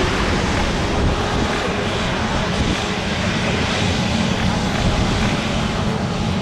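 Jet airliner's engines giving a loud, steady noise as the aircraft passes the airport.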